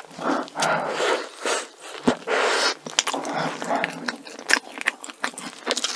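Mouth sounds of a big bite into a soft doughnut topped with whipped cream and a strawberry, then chewing it in a run of short, uneven bursts with sharp clicks.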